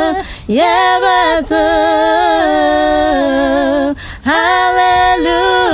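Twins singing a gospel song a cappella in two-part harmony. They hold long notes, with short breaks for breath about half a second in and again about four seconds in.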